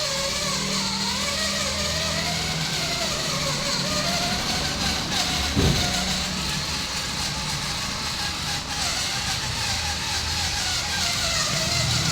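Electric motor of a radio-controlled 6x6 truck whining as it drives, its pitch rising and falling with the throttle, with a single knock about halfway through.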